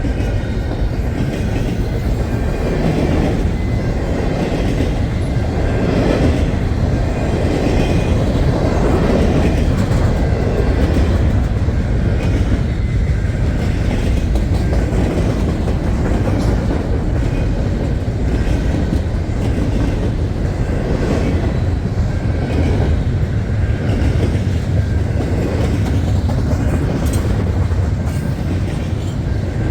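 Loaded container well cars of a long freight train rolling past at track side: a steady rumble with wheels clattering over the rails.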